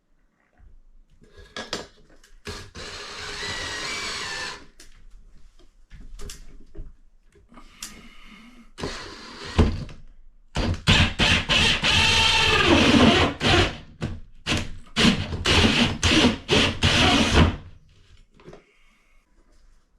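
Handheld power tool cutting pot-light holes in a drywall ceiling, running in short bursts and one longer stretch of repeated bursts, its motor pitch sagging and recovering under load.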